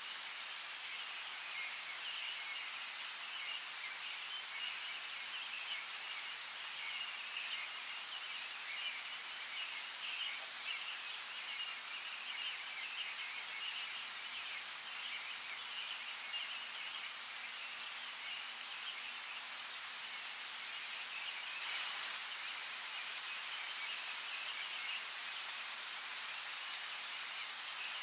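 Steady rain falling, with scattered sharper drop ticks, and birds chirping densely and continuously in a high register behind it.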